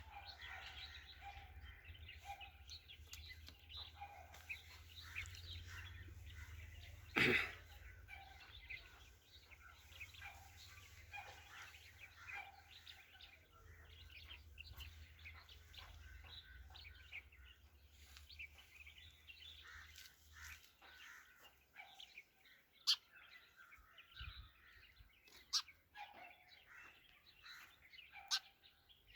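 Sparrow chirping repeatedly, with a loud knock about 7 seconds in and a few sharp taps later, as if the bird is pecking at a mirror. A low hum underneath stops about two-thirds of the way through.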